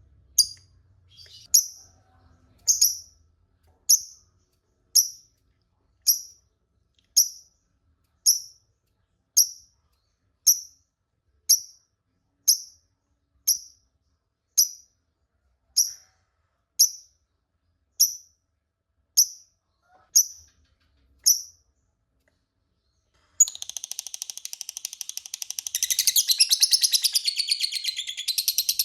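Lovebird calling: sharp single chirps repeated about once a second for some twenty seconds. After a short pause comes a continuous rapid chattering trill, the long 'ngekek' that fanciers prize.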